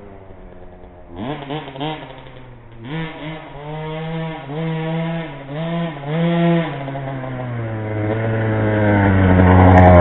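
2008 KTM 50cc two-stroke pit bike engine, faint at first, then revving in a string of short throttle bursts that rise and fall in pitch. From about 7 seconds in it holds a steadier pitch and grows much louder.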